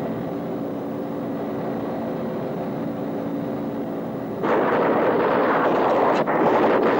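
Background music with held notes, then about four and a half seconds in a sudden loud, sustained roar of weapons fire from a helicopter gunship's armament.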